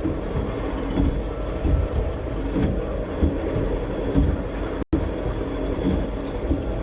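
1956 Pontiac hy-rail car rolling along railroad track at low speed: a steady low rumble from the car and its rail wheels, with scattered short clicks.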